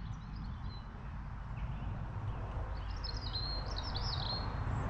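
A songbird singing a quick run of high, warbling phrases a little past halfway, with fainter chirps before it, over a steady low outdoor rumble.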